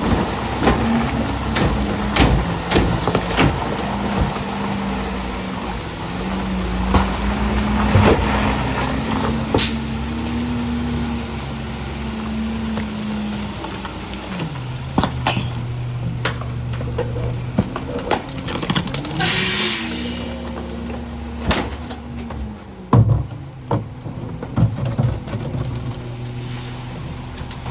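Garbage truck engine running and changing pitch as it revs up and settles, with repeated clanks and knocks from the truck and loading. About two-thirds of the way through comes a short, sharp hiss of air.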